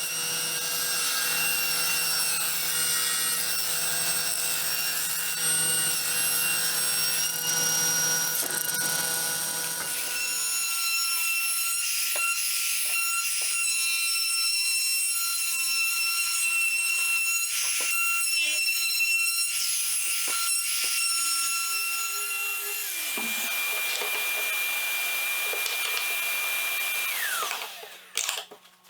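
Electric power tools running on wood: a steady motor whine with several overtones, changing character about ten seconds in and again past twenty seconds. Near the end the motor winds down with a falling pitch and stops.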